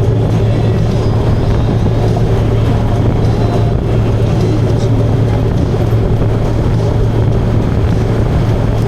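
Motorcycle engine running steadily at cruising speed, a constant low drone under a rushing wind and road noise.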